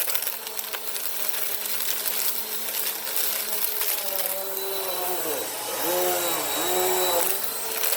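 Bissell Power Force Compact vacuum running while picking up sand and debris, with scattered gritty clicks of debris going through it. From about four seconds in, the motor's whine dips in pitch and recovers several times.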